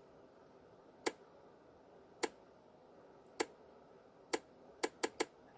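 Seven sharp, dry clicks: four spaced about a second apart, then three in quick succession near the end.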